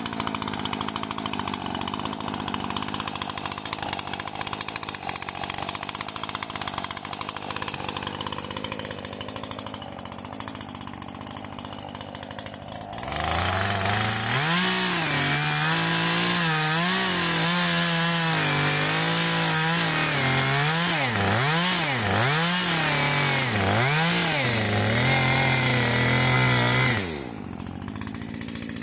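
Chainsaw running, loud and noisy at first as if cutting, easing off, then revving high about halfway through, its pitch dipping and rising several times with the throttle, before dropping back to idle near the end.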